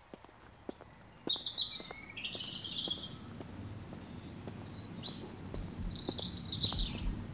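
A songbird singing two warbling phrases, the first about a second in and the second, louder one about five seconds in, over a low steady outdoor background.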